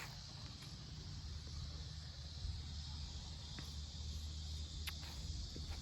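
Faint outdoor background: a steady high insect drone over a low rumble, with a few faint ticks.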